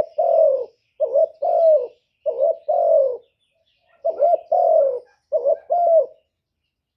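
Spotted dove (cu gáy) giving its excited cooing call ('cu gù'), a lure call used to stir up wild doves. Five coos, each a short hooked note followed by a longer falling note, with a brief pause in the middle; the calling stops just after six seconds.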